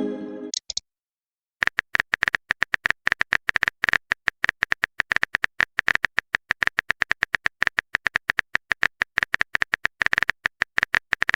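Phone keyboard typing sound effect: a steady run of short, quick clicks, several a second, beginning about one and a half seconds in. Just before them, a short message chime fades out.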